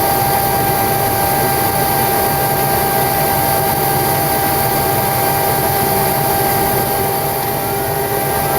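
Boeing 727-200 cockpit noise during an engine start: a steady hum and hiss with a constant high tone, as the JT8D turbofan winds up with its oil pressure rising. A faint rising whine comes in near the end.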